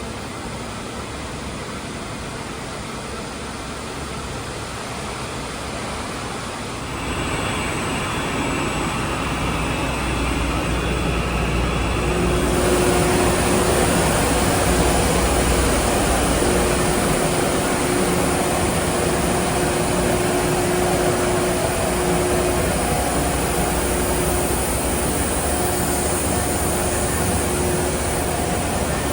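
Steady industrial machinery noise from a high-noise work area. It grows louder in two steps, about seven and twelve seconds in, after which a steady hum tone runs over it.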